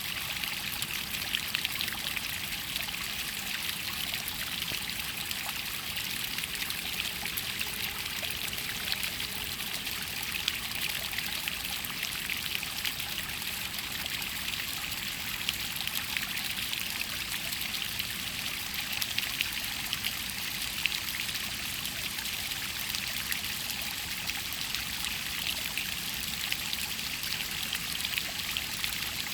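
Rainwater runoff trickling and splashing steadily over rock, a continuous bright babble of small water flows.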